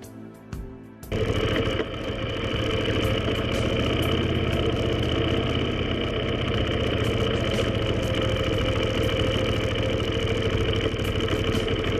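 Motorcycle engine running steadily at constant speed. It cuts in abruptly about a second in and holds an even pitch with no revving.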